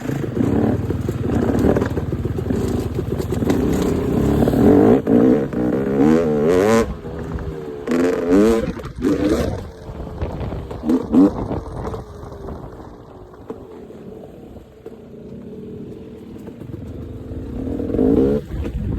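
Dirt bike engine revving up and down while riding, its pitch rising and falling repeatedly in the first half, settling lower and quieter for a few seconds, then climbing again near the end.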